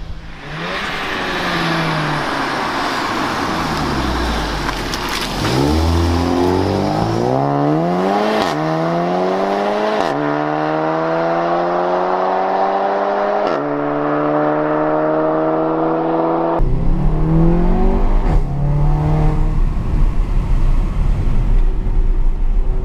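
HGP-tuned Volkswagen Arteon 2.0 TSI, a turbocharged four-cylinder with a flap sport exhaust, accelerating hard through the gears. The engine note climbs and drops sharply at each quick upshift, three times in a row. Later comes a steadier engine note over a deep rumble.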